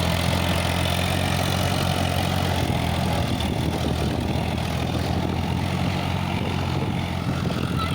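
Sonalika tractor's diesel engine running at a steady speed, an even low hum without revving.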